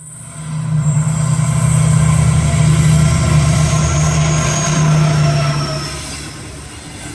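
Freight train passing through a station: loud rumble building about a second in and fading over the last second or two, with thin high-pitched wheel squeal over it.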